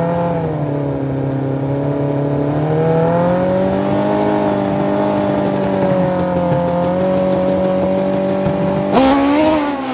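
Two Suzuki Hayabusa inline-four drag bike engines held at steady high revs on the starting line, the pitch sagging slightly and then climbing back. About nine seconds in the sound changes suddenly and grows louder as the bikes launch.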